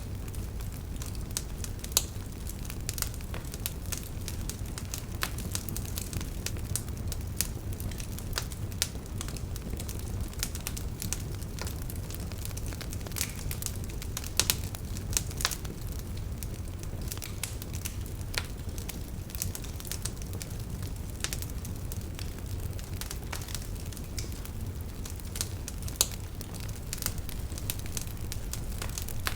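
Campfire crackling: irregular sharp snaps and pops of burning wood, a few louder pops among them, over a steady low rush of river water.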